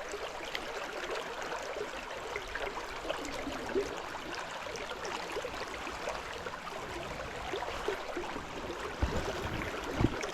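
Fast, rain-swollen stream water rushing steadily, with a couple of short low thumps near the end.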